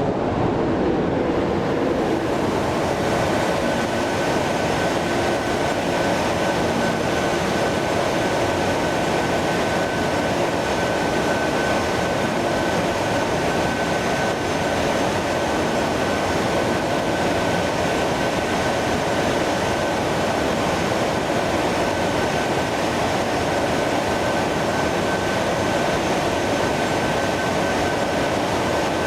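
Jet airliner engines running steadily, a loud even noise with a constant high whine over it.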